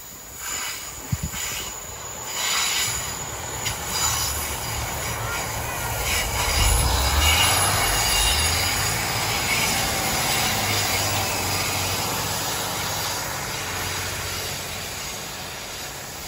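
A Class 150 Sprinter diesel multiple unit passing on the line, its engine and wheels on the rails growing louder as it comes by. It is loudest about seven seconds in, then fades slowly as it draws away. A few sharp clicks come in the first seconds.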